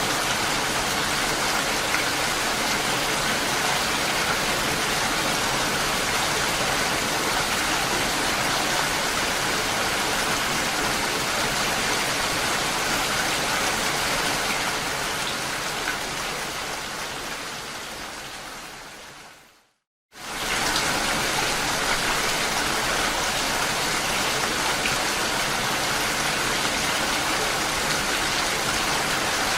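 Steady rain falling, an even hiss of drops. About two-thirds of the way through it fades out over several seconds to a moment of silence, then returns at once at full level.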